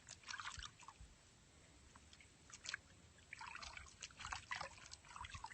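Faint, irregular trickling and splashing of soapy water as a hen's dirty vent feathers are washed by hand.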